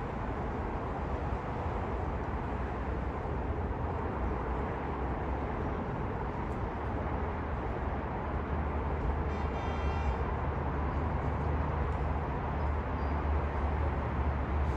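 Metro-North commuter train running through the station, a steady low rumble that grows louder in the second half. A short high-pitched tone sounds about nine seconds in.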